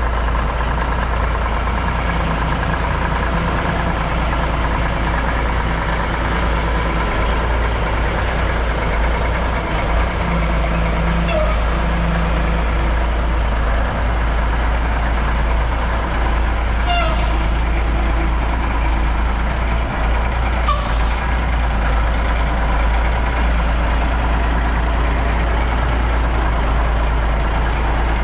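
A heavy truck engine running steadily with a deep, even rumble. Two brief sharp sounds come about two-thirds of the way through.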